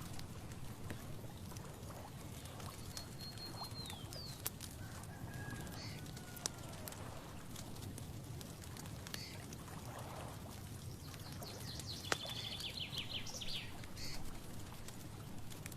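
Birds calling over a steady low background noise: scattered short trills and whistles, a longer run of trills near the end, and a few sharp clicks.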